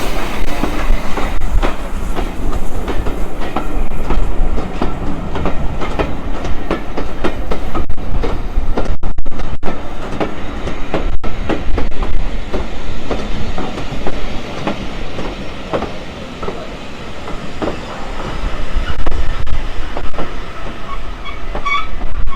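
Heritage steam train rolling along the platform road, its wheels clicking over the rail joints in a steady clickety-clack over a low rumble.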